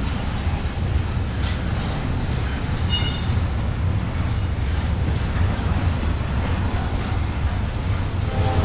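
Union Pacific intermodal freight train rolling past, a steady low rumble of the cars on the rails, with a brief high-pitched wheel squeal about three seconds in.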